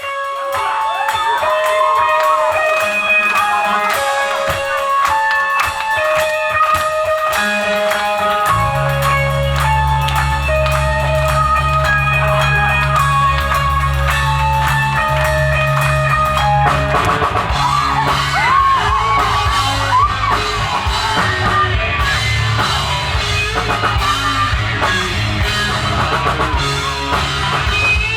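Rock band playing live: a guitar plays the opening melody, a heavy bass line comes in about nine seconds in, and the full band thickens from about seventeen seconds.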